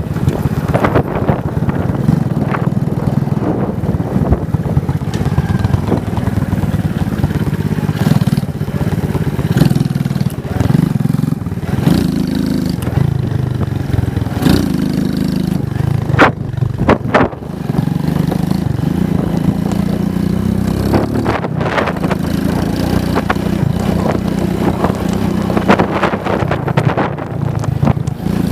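Motorcycle engine running while riding, its pitch rising and falling as the throttle opens and closes. A couple of short, sharp noises stand out a little past halfway.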